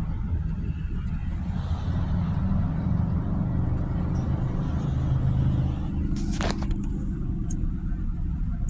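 Steady low rumble of a car driving in slow traffic, heard from inside the car, with one short sharp click about six and a half seconds in.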